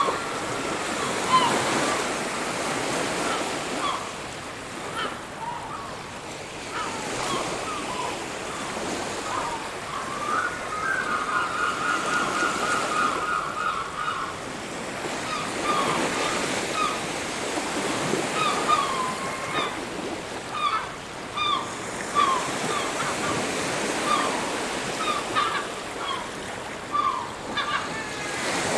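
Ocean surf washing on a beach in slow swells, with many short bird calls scattered throughout and a rapid trill lasting a few seconds near the middle.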